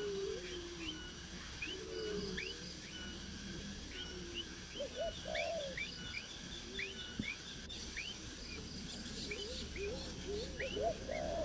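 Birds calling: a run of short, high, upward-sweeping chirps, with lower curving calls now and then, loudest near the start and near the end.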